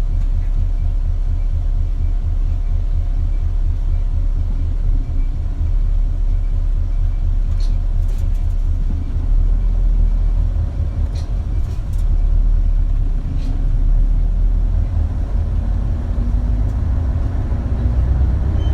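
Interior running sound of an Isuzu KL-LV280L1 diesel city bus on the move: a steady deep engine and drivetrain rumble, with a few sharp rattles and clicks from the body. The engine note climbs in pitch over the last few seconds as the bus picks up speed.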